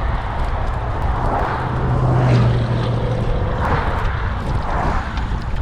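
Wind buffeting the microphone and road noise while cycling, with a low engine hum that swells and fades between about one and three and a half seconds in, as from a passing motor vehicle.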